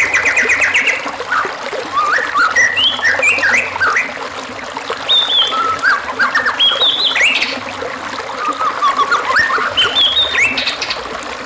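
White-rumped shama (murai batu) singing a varied, continuous song of short whistled phrases and rapid trills, over a steady trickle of running water.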